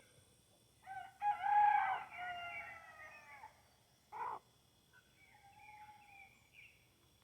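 Rooster crowing once, one long call of a little over two seconds that drops in pitch at the end, followed by a short sharp call about four seconds in. Faint chirping birds.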